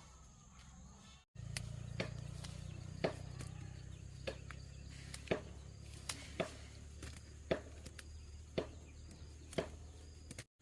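Irregular sharp knocks or taps, roughly two a second, over a steady low hum, starting after a brief cut to silence about a second in.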